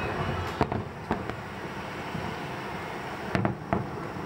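Fireworks going off: sharp bangs about half a second and a second in, then a quick cluster of three near the end, over a steady background rumble.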